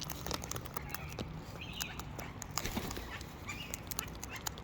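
Wild birds feeding on spread seed: irregular sharp clicks and taps, with short chirps in between.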